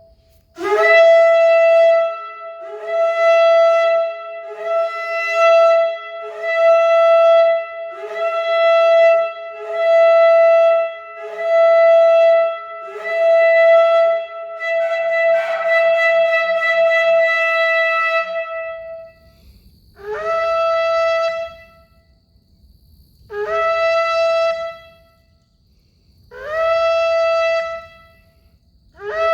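A shofar being blown: each blast starts on a low note and jumps up to a higher held note. A string of short blasts, each about two seconds, runs into one long held blast, followed after a pause by four separate shorter blasts about three seconds apart.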